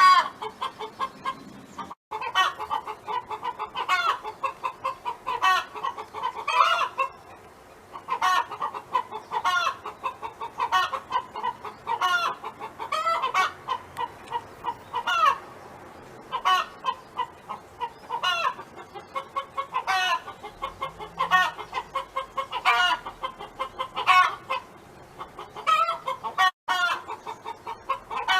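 A domestic hen clucking. Runs of quick short clucks are each capped by a louder, drawn-out call that rises in pitch, repeating every second or two: the hen's 'song'.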